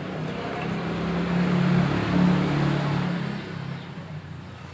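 A motor's low hum with a rushing noise over it, swelling to a peak about two seconds in and then fading away.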